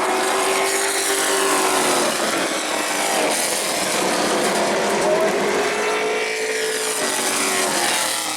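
Race truck engine running on the track, its pitch swelling and easing slightly.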